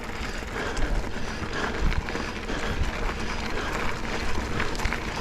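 Mountain bike rolling along a dirt double-track trail: a steady rush of tyre and wind noise with scattered small knocks and rattles from bumps.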